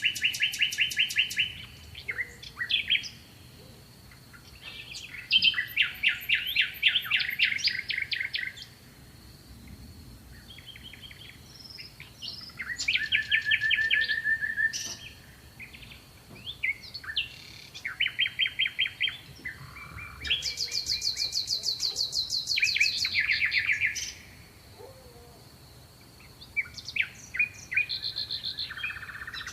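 Songbirds singing: a string of rapid trilled phrases of quickly repeated chirps, each a second to a few seconds long, with short pauses between them, over a faint steady high tone.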